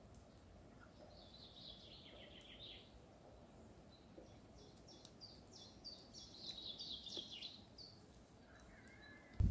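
A songbird singing faintly: a phrase of quick high notes about a second in, then a longer run of repeated high notes from about four seconds in to about seven and a half, and a short lower call near the end, over a faint steady hiss.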